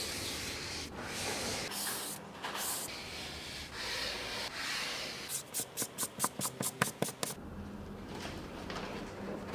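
Rubbing and scrubbing noise, then about a second past the middle a quick run of about ten short, sharp swishes in two seconds, then quieter rubbing.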